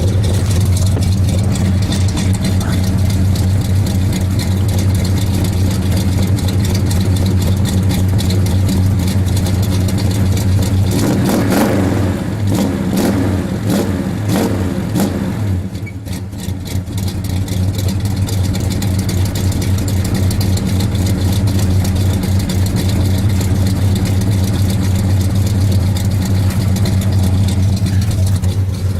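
1970 Oldsmobile Cutlass's 403 V8 running at a steady idle, revved once about eleven seconds in and falling back to idle about five seconds later. The rev brings out a rattle, which the owner puts down to a header hitting the frame and needing adjustment.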